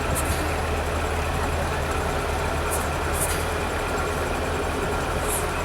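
Heavy trial truck's diesel engine running at a steady low idle, with a few short high hisses scattered through it.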